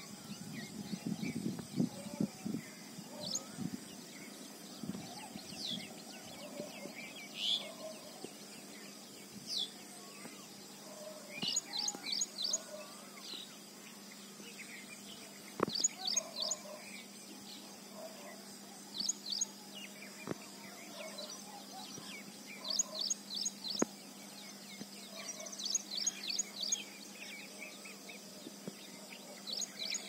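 Birds singing in the early morning. One bird repeats a quick run of three to five high, sharp notes every few seconds, with softer, lower calls from others in between.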